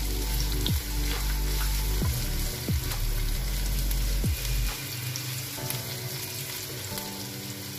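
Chopped onions sizzling in hot oil in a nonstick wok, being stirred with a spatula.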